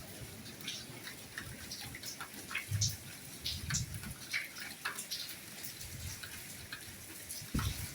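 Soft rain falling, with single drops heard as many separate light ticks over a steady hiss. A few duller, heavier drops land about 3 seconds in and again near the end.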